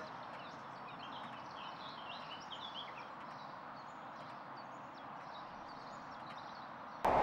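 Steady outdoor background hiss with birds chirping several times in the first few seconds, then a sudden loud rushing noise cuts in at the very end.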